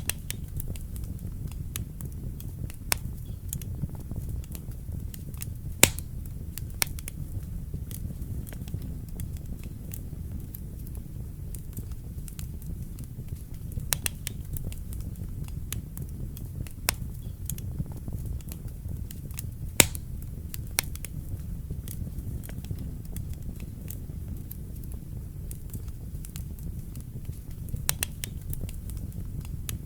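Wood fire burning in a fireplace: a steady low rumble of flames with irregular sharp crackles and pops, the loudest pops about six and twenty seconds in.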